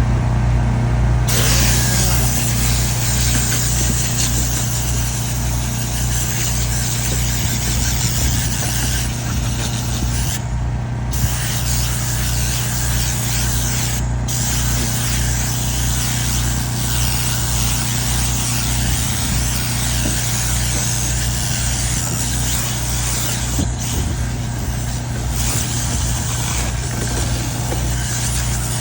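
Piston air compressor running with a steady pulsing hum while a compressed-air blow gun hisses, cutting out briefly a few times as the trigger is let go.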